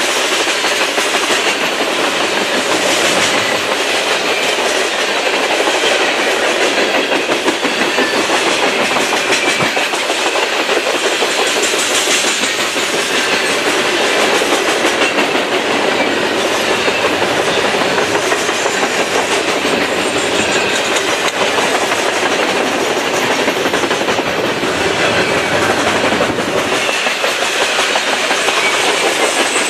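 Coal train's hopper cars rolling past, steel wheels clicking and rumbling steadily over the rail.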